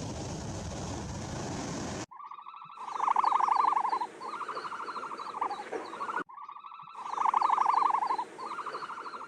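A steady rushing noise that cuts off about two seconds in, followed by an animal's rapid rattling call of several seconds, loudest early on, which then starts over as the same call a second time.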